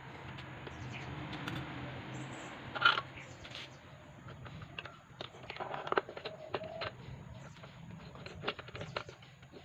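Irregular clicks and knocks of parts and hand tools being handled, over a low steady hum, with the loudest knock about three seconds in. A pigeon coos briefly about six seconds in.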